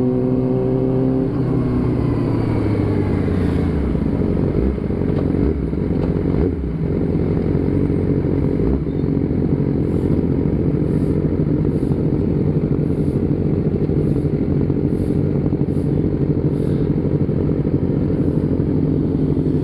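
Motorcycle engine running under way; its pitch drops about a second in, then holds steady.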